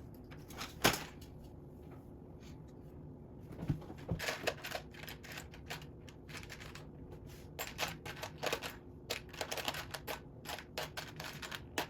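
Small plastic Lego bricks clicking and rattling as they are sorted and sifted through by hand, in irregular clusters of short clicks with a sharper knock about a second in.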